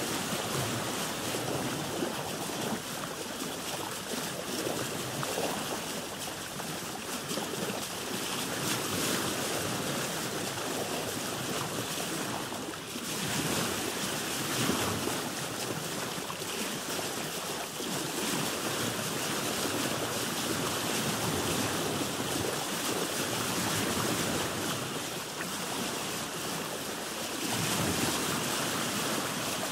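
Ocean waves washing around a boat with wind: a continuous rush of water noise that swells and eases every few seconds, dipping briefly about twelve seconds in.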